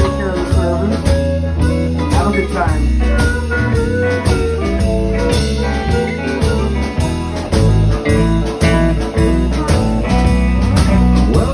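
Blues band playing live without vocals: guitar with bending notes over a steady bass line and a regular drum beat.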